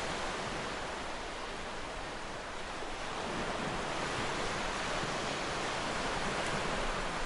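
Ocean surf washing onto a beach: a steady rushing wash that eases slightly a couple of seconds in and swells again.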